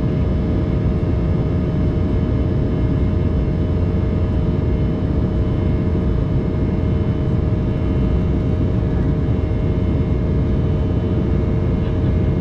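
Steady in-flight cabin noise of an Embraer 190 airliner: a deep rumble of airflow and engine noise with a constant hum of several steady tones from its GE CF34-10E turbofan engines.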